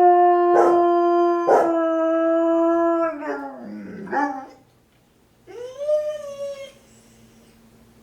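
Two dogs howling in response to a tornado siren: a long, steady held howl that breaks and slides down in pitch about three seconds in, then after a short gap a shorter howl that rises and falls. Two short sharp sounds cut through the first long howl.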